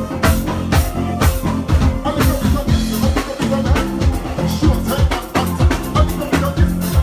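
Live soca band playing an uptempo groove: a drum kit keeps a steady, even beat over a moving bass line.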